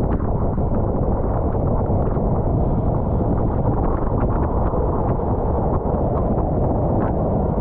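Loud, steady wind noise buffeting the microphone of a camera on a road bike moving at race speed, with faint scattered ticks.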